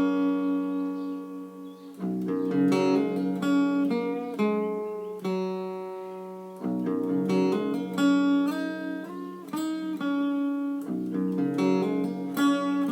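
Solo guitar playing a slow, simple melody in picked notes. Each phrase ends on notes left to ring and fade, and a few notes slide in pitch around two-thirds of the way through.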